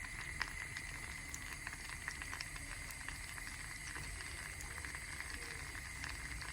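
Food cooking in a pan: a steady sizzle with many small irregular crackles and a faint high whine.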